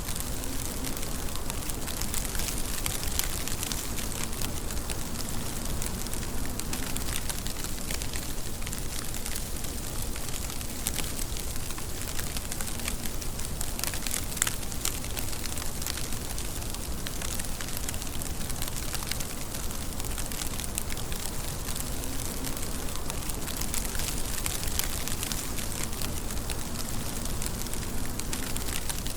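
Steady rain falling: an even hiss thick with many small, crackling drop patters.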